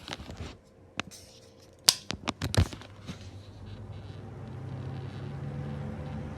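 Several sharp clicks, then household exhaust fans starting up about halfway through: a low hum that builds over a couple of seconds and settles into a steady run.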